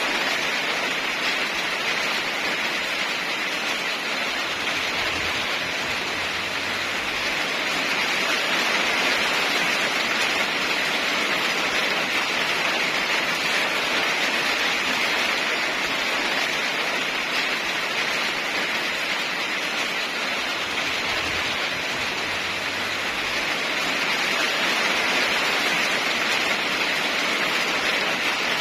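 Steady heavy rain falling, a dense even hiss that swells and eases slightly every several seconds.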